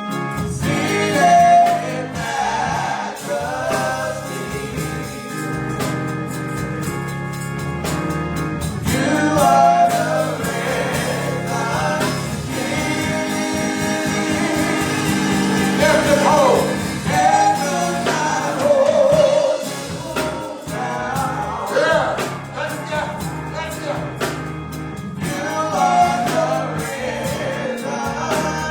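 Gospel song performed live, with singers over a steady instrumental accompaniment.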